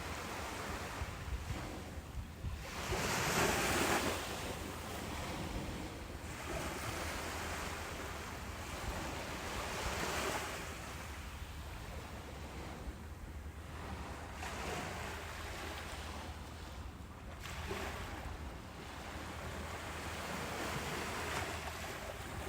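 Ocean waves breaking and washing up a beach in a steady rush. The surf swells and fades every few seconds, the biggest wave breaking about three seconds in.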